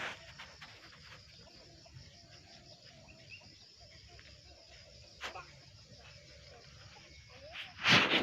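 Insects, crickets or cicadas, chirring steadily and high-pitched, with a short, loud burst of noise just before the end.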